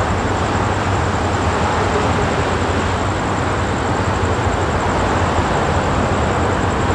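Steady rumble and rushing noise of a train running along the rails, with no breaks or separate strokes.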